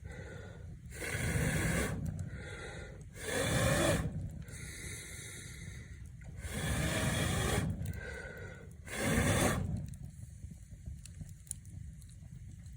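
Wood fire burning in a fireplace: a steady low rumble with faint crackles, and four rushing surges, each lasting a second or two.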